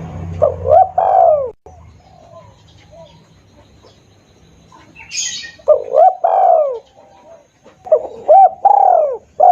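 Spotted dove (tekukur) cooing, its lure call given in three loud, clear phrases of rolling coo notes with pauses between.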